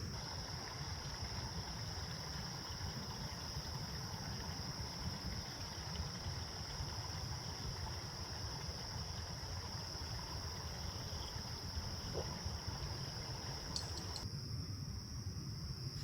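Insects chirring in one steady, high-pitched drone over a low rumble; a mid-range hiss beneath them drops away near the end.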